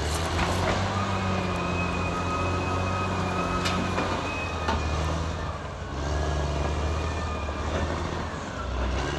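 Caterpillar D6R XL bulldozer working, its diesel engine running heavy and changing pitch as the load comes and goes. A steady high whine runs over it for a few seconds at a time, and there are a few sharp metallic clanks, about four and five seconds in.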